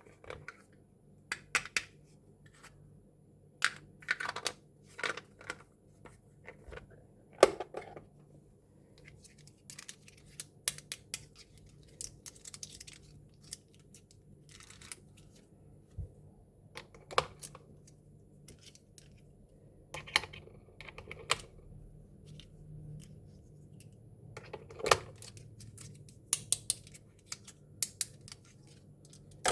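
Small plastic miniature kitchen toy pieces clicking, tapping and knocking as they are handled and set down, with short bursts of rustling or tearing packaging. The clicks come irregularly, a few a second at their busiest.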